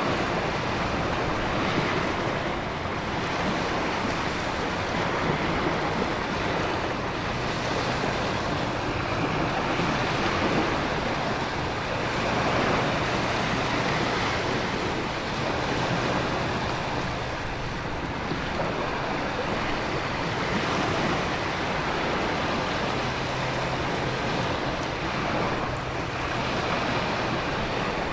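Storm ambience of heavy rain and wind with ocean surf, the noise swelling and easing every few seconds as waves break. A faint low hum runs steadily underneath.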